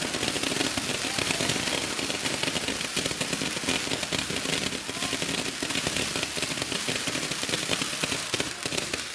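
Hand-held tube firework (tezutsu hanabi) spewing sparks: a continuous, dense crackling hiss.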